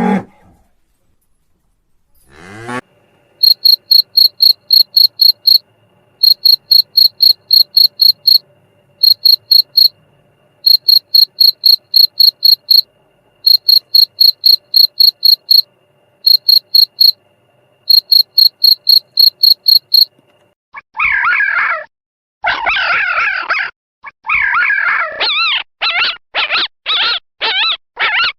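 Cricket chirping: a high, pulsing trill at about four chirps a second, in runs of about two seconds with short pauses. In the last quarter a different animal's repeated calls take over.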